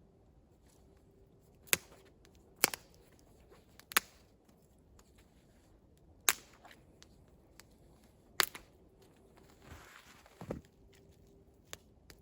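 Five sharp cracks, spaced one to two seconds apart, followed by a softer rustle.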